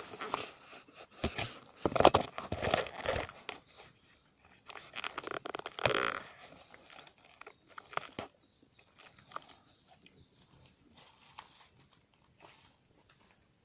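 Wood campfire crackling and popping, with louder spells of sharp cracking in the first half, then only faint scattered pops.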